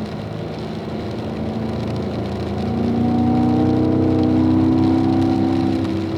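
Car engine pulling in fourth gear. About three seconds in its pitch climbs and it grows louder as the car accelerates, then holds steady.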